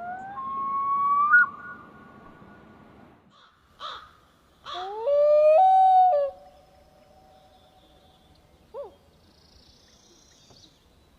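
A bird calling: two long calls about four seconds apart, each rising in pitch and then held steady, with a couple of short, faint calls in between and after.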